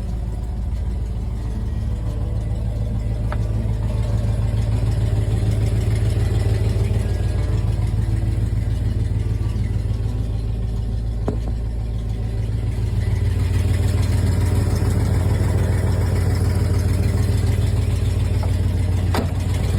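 A 1970 Cadillac DeVille's 472 cubic-inch V8 running steadily at idle, with its low note shifting slightly about two-thirds of the way through and a few faint clicks.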